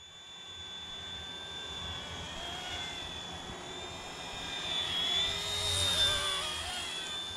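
Small RC helicopter hovering: a steady high-pitched motor and rotor whine that wavers slightly in pitch, swells louder about five to six seconds in, then eases back.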